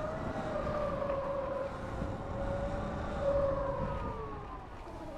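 Sur-Ron electric dirt bike's motor whining under throttle, its pitch wavering, then sliding down and fading near the end as the throttle eases, over a low rumble.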